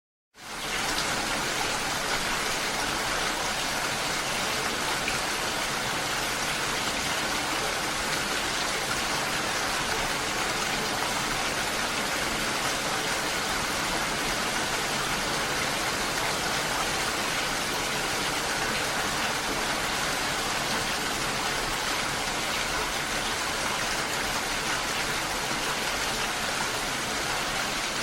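Steady rushing water noise, even and unbroken, coming in right after a brief silence at the start.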